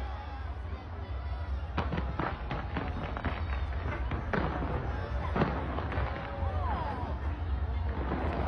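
Fireworks bursting with sharp bangs and crackles, coming in quick succession from about two seconds in.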